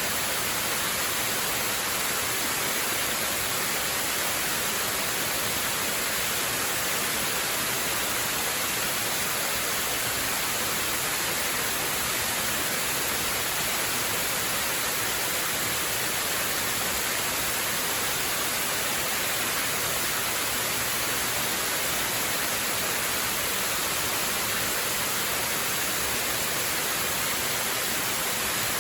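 A waterfall's steady, unbroken rush of falling water, mostly a bright hiss with little low rumble.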